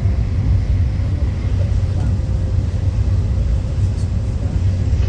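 Electric passenger train running at speed, heard from inside the carriage: a steady low rumble with faint clicks from the running gear.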